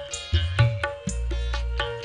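Live dangdut koplo band playing an instrumental sound check: a steady drum rhythm over deep, held bass notes and plucked melody notes.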